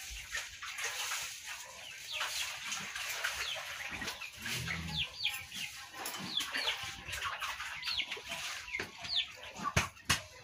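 Birds chirping over and over in short, high calls that fall in pitch, with two sharp knocks near the end.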